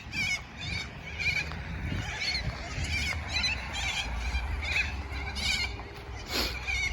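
A flock of parrots calling: many short, wavering squawks overlapping and repeating about twice a second.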